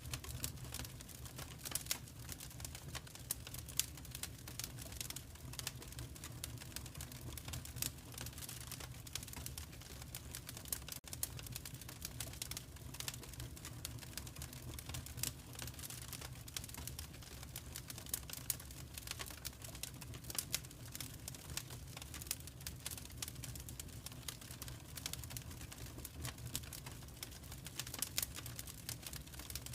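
Wood fire crackling with many small, irregular pops and snaps over a steady low rumble.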